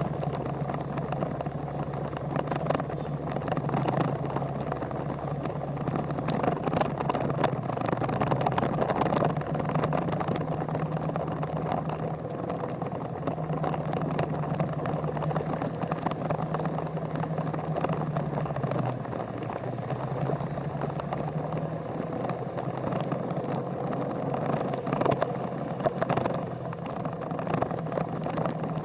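Motorcycle engine running at a steady cruising speed, with road and wind noise around it. Its pitch dips briefly about two-thirds of the way through, then settles back.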